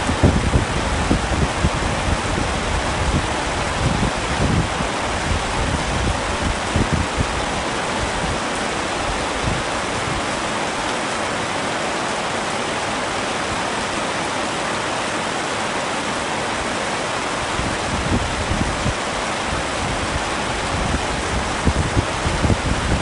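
Heavy rain falling steadily on a tent, a dense even hiss. Low rumbling gusts swell through the first several seconds, die down through the middle, and return near the end.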